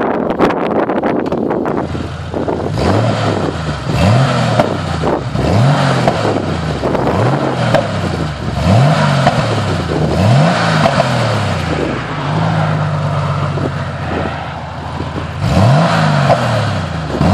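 Porsche 993 Carrera 2's air-cooled flat-six exhaust through Dansk 300S sports mufflers, revved repeatedly. Each blip rises quickly and falls back slowly, with a brief steady hold partway through. Wind noise on the microphone partly covers the exhaust.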